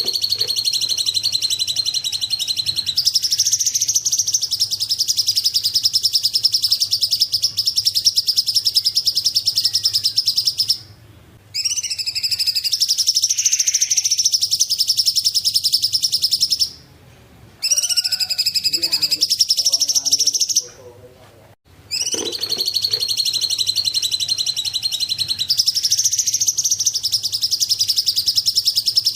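Cungkok songbird singing long, rapid, high-pitched trilling phrases that run for several seconds at a time, with three short abrupt breaks.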